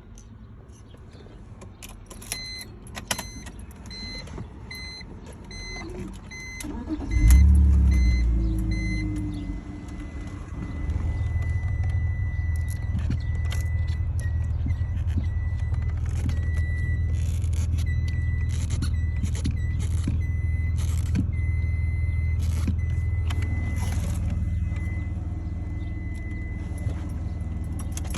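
BMW E46 330i's straight-six engine starting with a loud surge about seven seconds in, then idling steadily. Before the start, a car's electronic beep repeats about one and a half times a second. A thin, steady high tone runs on through the idle, with scattered clicks.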